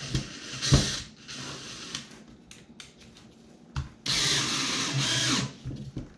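Power drill running a stainless steel screw into the seat mount. Short bursts early on, then a steady run of about a second and a half starting about four seconds in.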